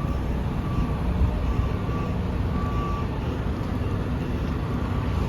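Semi-truck's diesel engine running steadily at low speed while reversing into a loading dock. A faint high beep sounds on and off four times in the first three seconds.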